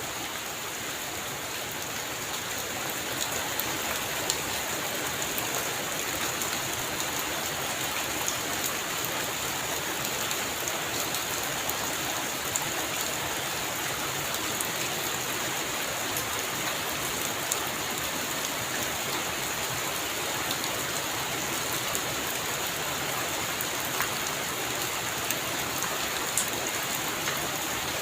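Heavy rain falling steadily on a roof, with many small sharp drop hits scattered through the steady hiss.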